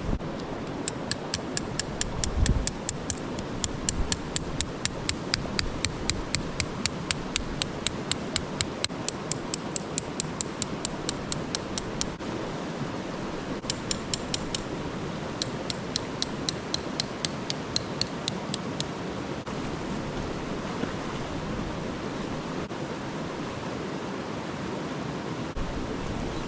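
Sharp, regular tapping, about three strikes a second, in two long runs that stop about two-thirds of the way through, over a steady rushing noise.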